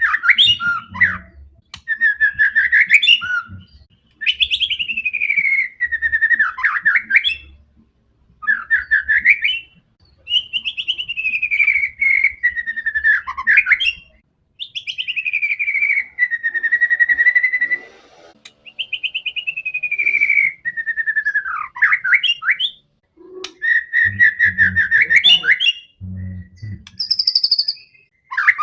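White-rumped shama singing loudly and without let-up, in a run of phrases of rapid, fluttering notes that sweep up and down, each phrase a second or few long with short pauses between.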